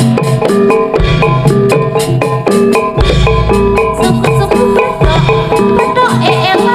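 Instrumental jaranan gamelan music: metallophones strike a fast, even melody over hand drums, with a deep low stroke about every two seconds.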